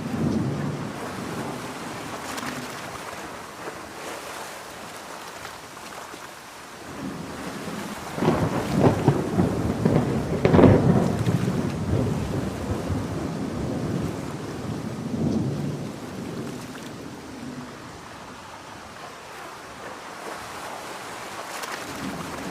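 Steady heavy rain with a thunderclap about a third of the way in: a low rumble that builds, cracks sharply near the middle and rolls away over several seconds.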